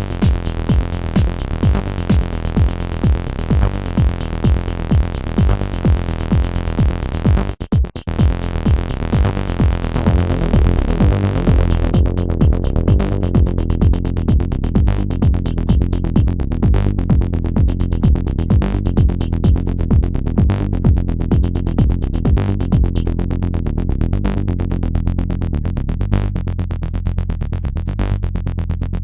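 Electronic acid-style jam: two Behringer TD-3-MO bass synthesizers playing a sequenced bassline in unison, with a steady drum-machine beat from a Roland JD-Xi, dry with no effects. Everything drops out for a moment about seven and a half seconds in, and about twelve seconds in the bright top end falls away, leaving a darker, bass-heavy groove.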